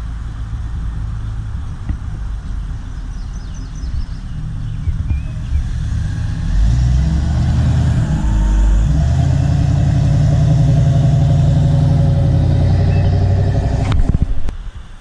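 A car engine running with a low, even drone that grows louder over the first several seconds, then cuts off abruptly near the end.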